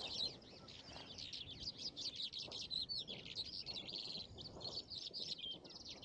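Birds singing: a dense, unbroken stream of quick high chirps and trills.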